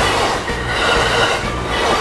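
Electric train running along the track, with steady motor tones over the rumble and rhythm of the wheels on the rails.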